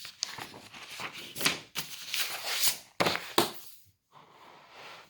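Paper rustling and handling noise as textbook pages are handled and turned, with a few sharp taps among it, then a softer rustle near the end.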